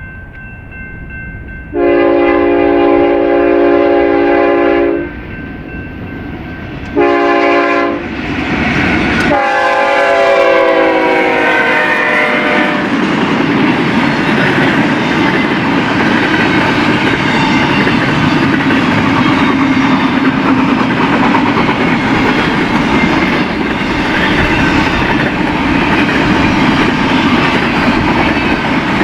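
Locomotive horn on an eastbound BNSF freight train sounding a long blast, a short blast, then a long blast that drops in pitch as the locomotive passes. After that the train rolls by steadily, wheels clicking over the rail joints.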